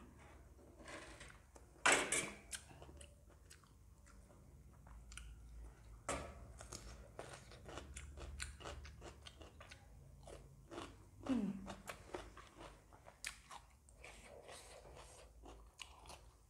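A person chewing a mouthful of mustard greens and noodles close to the microphone, with many small wet clicks and crunches. A louder crunch comes about two seconds in, and a brief falling mouth sound comes about eleven seconds in.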